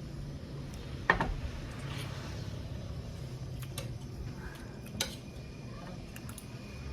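Cutlery clinking against plates and bowls while eating: a sharp clink about a second in, a second one about five seconds in, and a few lighter taps between.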